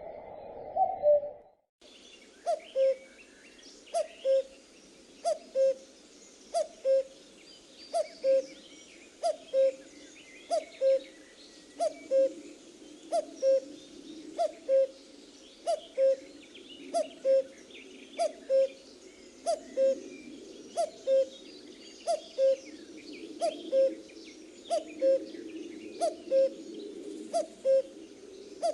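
Common cuckoo repeating its two-note "cu-ckoo" call, a higher note dropping to a lower one, evenly about every second and a half, with other small birds chirping faintly behind. A brief cut to silence about a second in, before the calling starts again.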